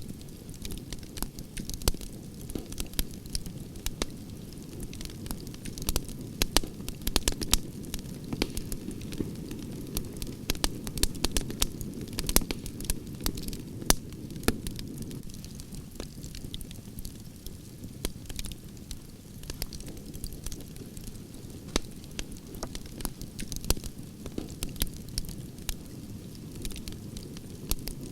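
Campfire of burning logs crackling, with frequent irregular sharp pops and snaps over a steady low rumble of flame.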